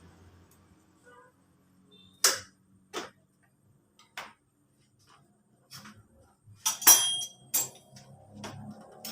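Metal tools and engine parts being handled during a scooter engine teardown: a series of separate sharp clinks and knocks a second or so apart, loudest about seven seconds in.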